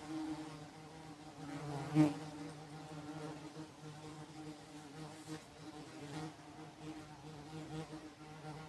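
Wasps buzzing in flight around fruit: a wavering wingbeat hum that swells and fades, loudest briefly about two seconds in as one passes close.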